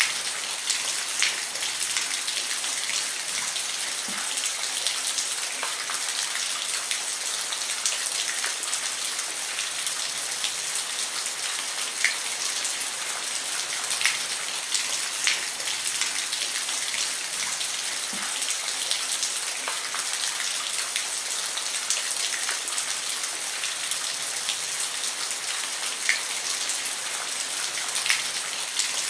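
Steady rain falling on a roof, a continuous hiss with scattered sharper drop impacts ticking now and then.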